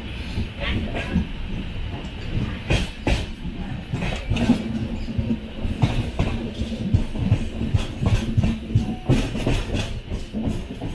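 Passenger train running, with a steady low rumble and repeated sharp clacks of the wheels over the rail joints.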